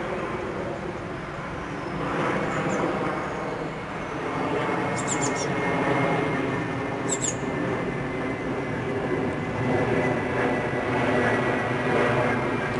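Steady low rumble of distant engine noise, with short bird chirps twice, about five and seven seconds in.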